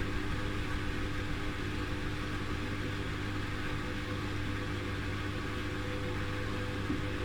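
Haier I-Pro Series 7 front-loading washing machine running mid-cycle on its Daily Rapid 40°C programme: a steady, even motor hum with a faint whine, no rise or fall in pitch.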